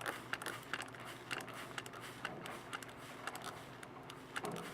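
Hand spray bottle being pumped over and over: a quick, irregular run of sharp trigger clicks and short spritzes, a few a second.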